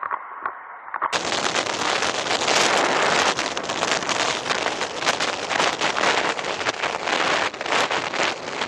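Wind buffeting a motorcycle rider's camera microphone at speed: a loud, rough rushing noise with constant rapid flutter that cuts in suddenly about a second in.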